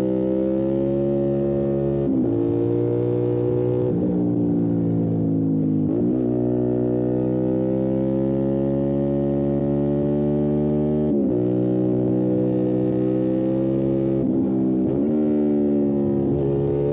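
Motorcycle engine running under way, its note slowly climbing and then dipping sharply and recovering several times, about every few seconds.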